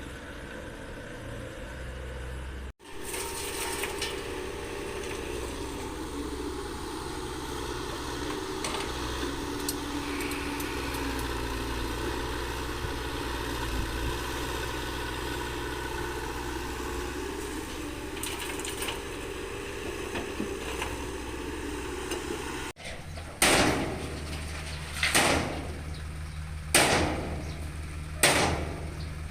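Heavy machinery engine running steadily while laterite soil is being dug and loaded. In the last few seconds there is a series of loud heavy knocks, about one every second and a half.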